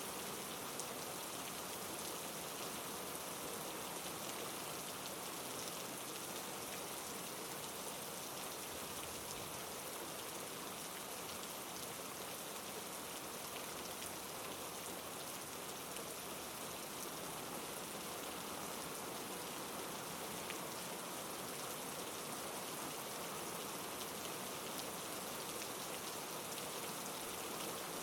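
Heavy rain falling steadily: an even, unbroken hiss with scattered small drop ticks.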